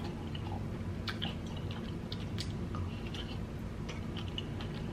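Chewing of soft green kiwi fruit flesh, with scattered short clicks over a steady low hum.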